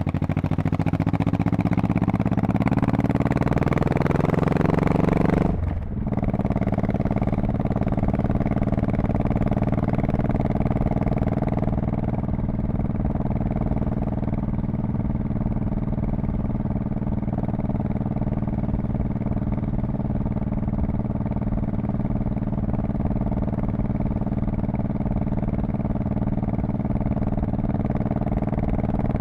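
Honda Shadow Spirit VT1100C's V-twin exhaust pulling under acceleration, its pitch rising for about five seconds. A short drop comes about six seconds in, as at a gear change, and then the engine runs steadily at an even cruising speed.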